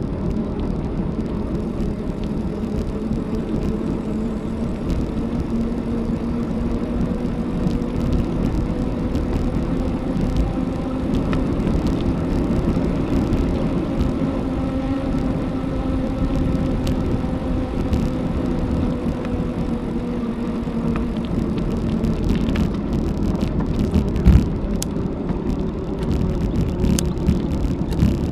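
Bicycle riding along a road: a steady rumble of tyre and wind noise, with a faint hum that rises slightly and falls back over the middle, and a single knock near the end.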